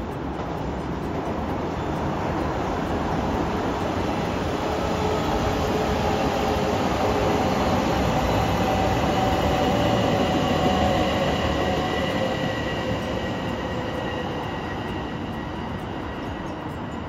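White JR Kyushu limited-express electric train passing: a steady rumble of wheels on rail with a faint whine over it. It grows to its loudest about ten seconds in, then fades as the train moves away.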